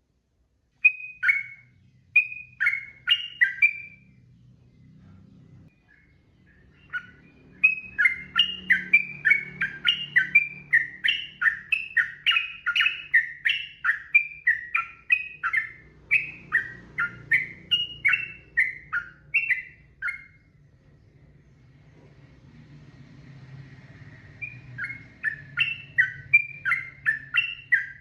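Sooty-headed bulbul (trucukan) singing in fast runs of short, rising and falling notes, starting about a second in and breaking off twice for a few seconds before picking up again. A faint low hum lies underneath.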